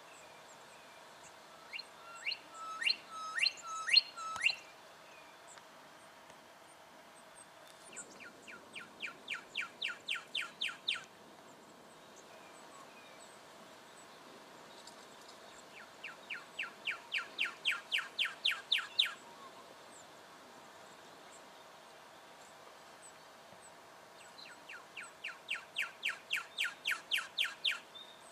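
Juvenile brown goshawk calling: four runs of rapid, repeated sharp notes, about four a second, each run lasting about three seconds and growing louder toward its end.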